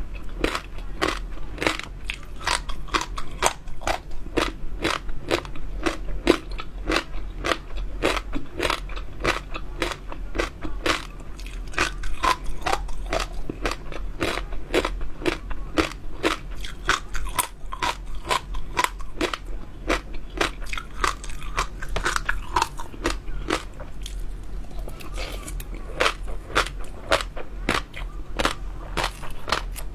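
Close-miked chewing of crunchy jelly dessert pearls with bits of water chestnut inside: a steady run of crisp crunches, about three a second, with a short pause late on before the chewing picks up again.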